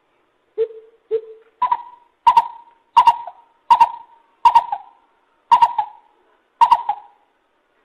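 Lesser coucal calling: a series of hollow hooting notes, two lower ones followed by seven higher ones at a little over one a second, each starting sharply and trailing off.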